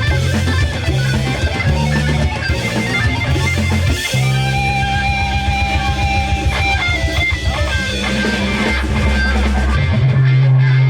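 Live rock band playing: electric guitar over bass and drums. About four seconds in, a high note is held for roughly three seconds and then bends down.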